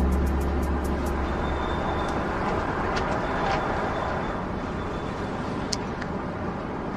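Street traffic noise: a steady hiss of road noise, with a deep vehicle rumble that fades away over the first second and a half.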